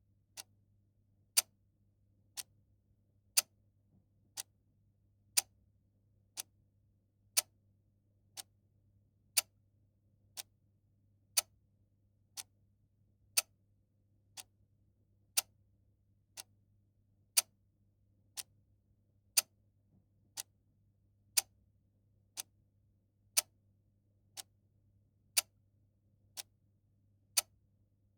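Clock ticking steadily at one tick per second, the ticks alternating louder and softer in a tick-tock pattern, over a faint low hum.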